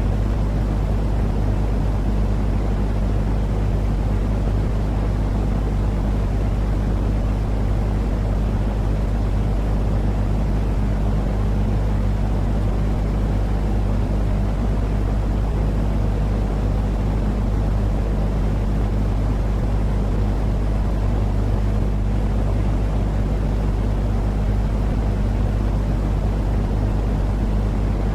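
Steady, unbroken low rumbling noise with a constant hum underneath, like a running machine or engine drone, played as soothing sleep noise for babies.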